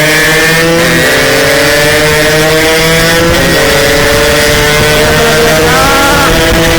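Yamaha RX-King two-stroke motorcycle engine pulling hard under acceleration, its pitch climbing steadily. The pitch drops at a gear change about halfway through, then rises quickly again near the end.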